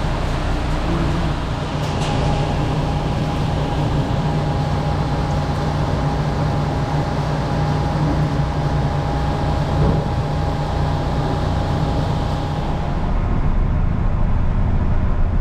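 Truck engine running steadily, with a thin steady whine through most of it; about 13 seconds in the sound changes to a deeper, heavier hum.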